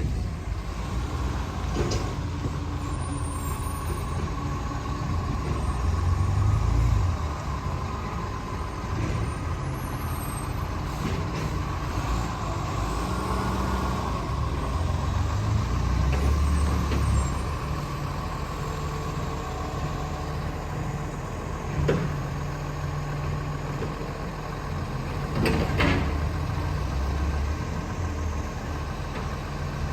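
Garbage truck engine running, revving up twice, with two short sharp sounds in the second half.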